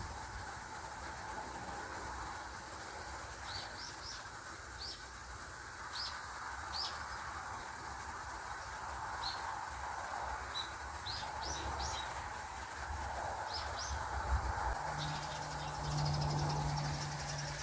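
Birds chirping in short, high calls repeated every second or so over a steady background hiss. A low steady hum comes in near the end.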